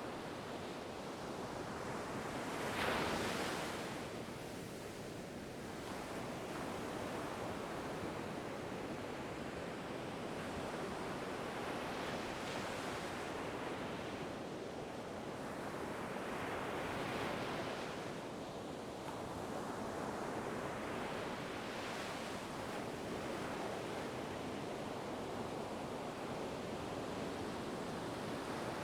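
Ocean waves breaking and washing in a steady surf, with a wave crashing in every few seconds, the loudest about three seconds in.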